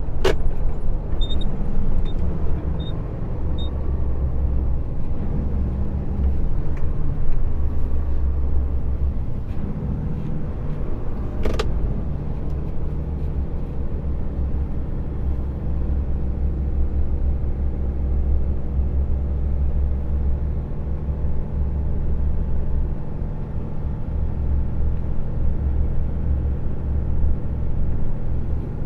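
Truck engine and road noise heard from inside the cab while driving, a steady low drone. Four light, evenly spaced clicks come in the first few seconds, and a single sharp knock comes about halfway.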